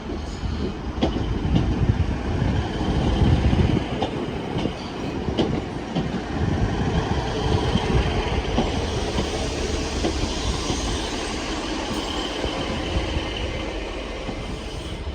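Train running on rails: a steady rumble with occasional sharp clicks from the wheels, and a faint high steady whine running underneath.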